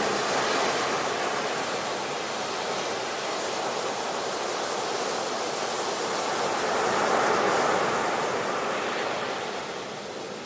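Ocean surf: a steady rush of waves that swells at the very start and again about seven seconds in, easing off near the end.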